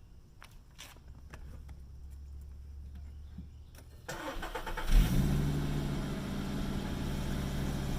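A 2013 Volkswagen Golf's engine is cranked and catches about five seconds in, with a brief flare, then settles to a steady idle on the exhaust it came with.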